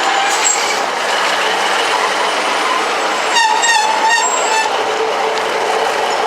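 A train passing on the line: a loud, steady noise of wheels running on the rails, with a short wavering tone about three and a half seconds in.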